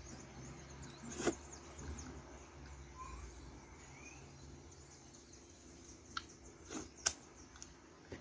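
Quiet eating sounds: a few sharp, wet mouth smacks and clicks while chewing fufu and soup, one a little past a second in and a cluster of three near the end, over a low steady hum.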